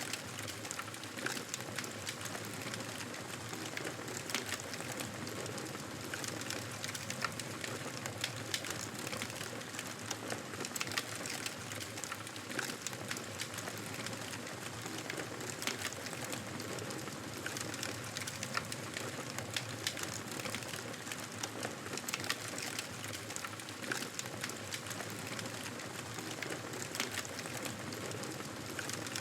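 Wood fire burning in a fireplace: a steady hiss with frequent small crackles and pops, a few of them sharper.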